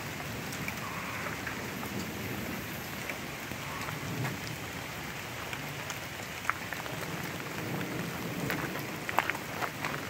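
Steady rain falling, with sharp drop hits close by that come thicker near the end, over a low grumble of thunder.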